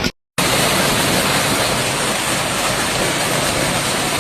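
A hailstorm pelting down: a dense, steady roar of hail and rain. It follows a brief dropout to silence at the start.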